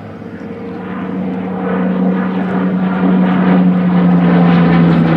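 Rolls-Royce Merlin V12 engine of a Hawker Hurricane in a display pass, a steady propeller-aircraft drone growing steadily louder as it approaches, its pitch easing slightly lower near the end.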